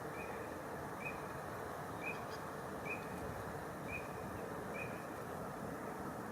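A bird's short, high call repeated six times, about once a second, over the steady rush of river water.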